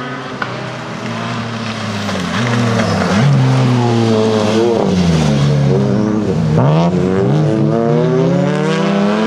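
Rally car engine revving hard, its pitch climbing and then dropping sharply several times as it lifts off and changes gear, over a steady rush of tyre noise.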